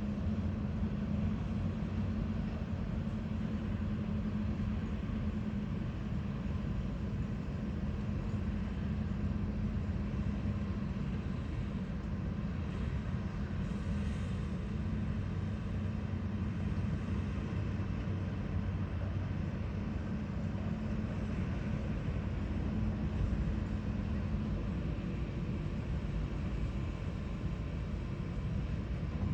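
Diesel engine of heavy road-building machinery running steadily with a low, even hum.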